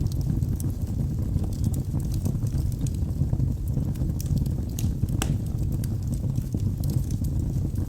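Wood logs burning in a fireplace: a steady low rumble of flames with scattered sharp crackles and pops, one louder pop about five seconds in.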